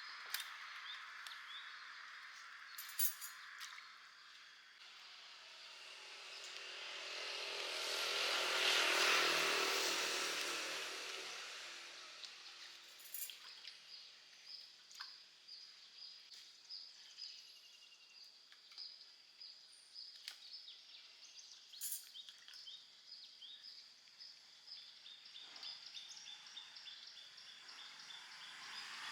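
A passing vehicle swells to a peak about nine seconds in and fades away. After it, small birds chirp repeatedly over quiet outdoor background noise.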